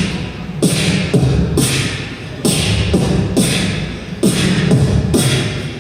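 Live beatboxing: a single vocal-percussion groove, the first of four beats to be layered, with deep mouth-made kick drums that drop in pitch alternating with hissing snare sounds in a steady repeating pattern.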